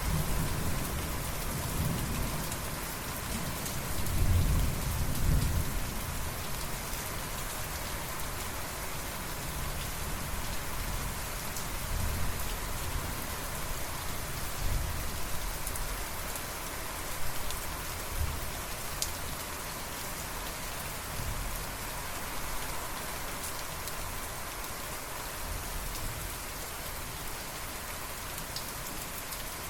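Steady rain falling, with a low rumble of thunder that swells in the first few seconds, loudest about four to five seconds in, then fades to softer rumbles under the rain.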